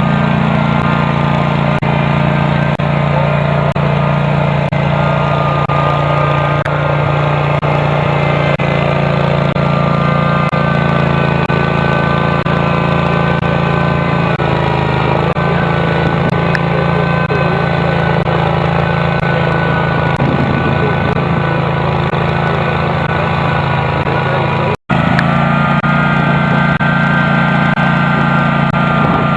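Custom John Deere garden tractor's engine running steadily while plowing. The sound cuts out for an instant near the end.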